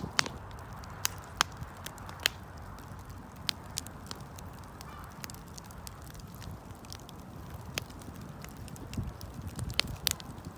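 Wood campfire crackling: irregular sharp pops and snaps over a steady low rush of burning, with a quick flurry of crackles near the end.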